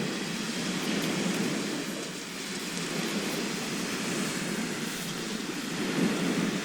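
Sea surf washing onto a shore: a steady rushing noise that swells and eases, rising to its loudest about six seconds in.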